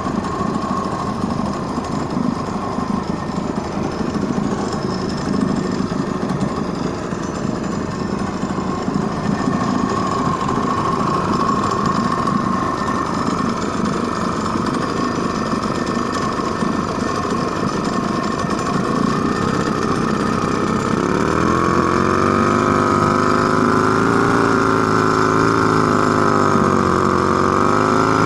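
LMM-6 boat engine running steadily with a rapid mechanical clatter, then speeding up about three quarters of the way through; its pitch rises, dips briefly and rises again near the end.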